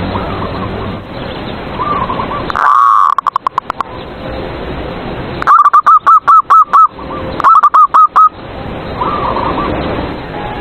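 Zebra doves (perkutut) cooing: one loud phrase about three seconds in, then two runs of rapid rippling coos about five and a half and seven and a half seconds in. Fainter doves call in between over a steady hiss.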